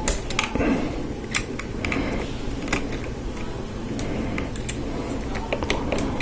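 Plastic Lego Technic pieces clicking and tapping against each other as they are handled, in scattered irregular clicks.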